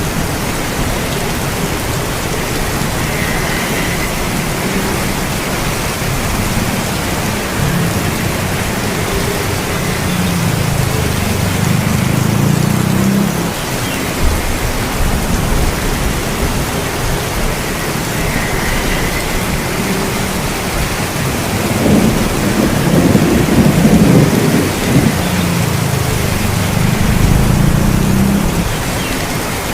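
Steady rain with low rolling thunder rumbling in the background, swelling twice, the louder roll about two-thirds of the way through.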